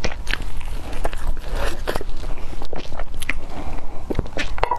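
Close-miked eating: wet chewing, lip smacks and small mouth clicks as a soft, crumb-coated piece of food is bitten and chewed, with irregular sharp smacks throughout.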